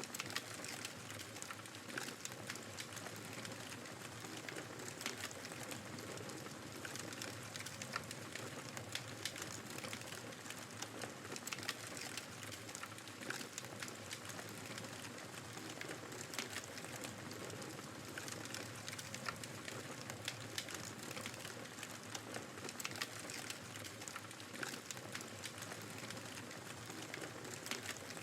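Wood fire crackling with frequent small, irregular pops over a steady rush of blizzard wind.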